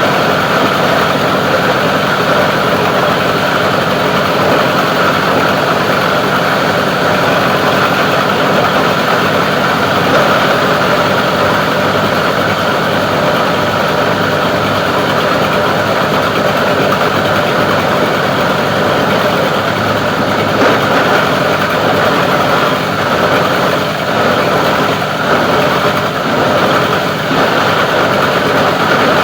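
Plastic recycling grinder running steadily: a loud, continuous mechanical drone with no pauses.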